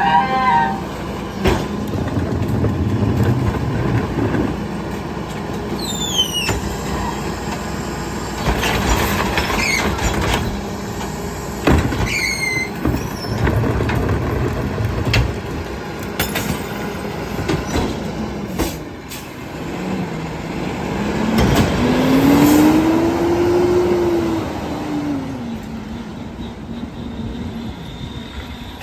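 Garbage truck compacting a load of recycling: the engine runs under load while the packer works, with repeated clanks and bangs of material being crushed and short high metal squeals. Near the end a whine rises and then falls as the packing cycle strains and eases.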